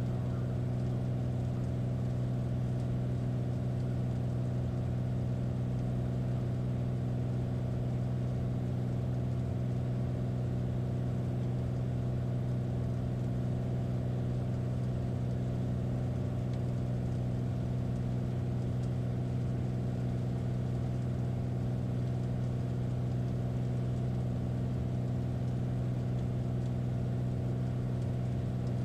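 Small airplane's engine drone heard in the cockpit, steady and unchanging, with a strong low hum.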